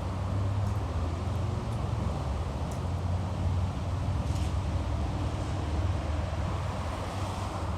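Steady low rumble of road traffic on a busy city street, with no single vehicle or event standing out.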